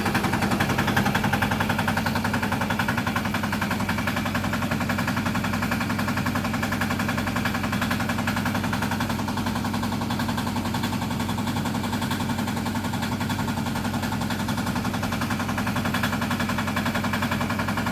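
Small motor running steadily with a rapid, even pulsing, easing slightly in level after the first couple of seconds.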